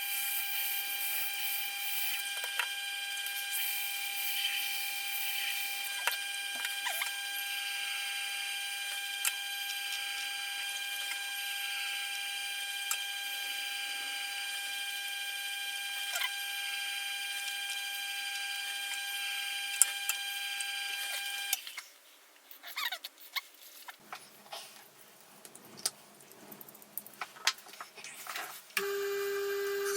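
Electric knife-sharpening machine running with a steady high whine and scattered light clicks. The motor stops about three quarters of the way through, a few light knocks follow, and a machine with a lower whine starts near the end.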